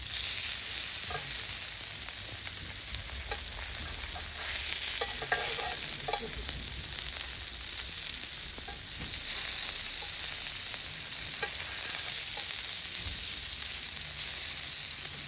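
Meat sizzling in its running fat on a thick 6 mm steel griddle plate: a steady frying hiss that swells a few times, with a few faint ticks in the middle.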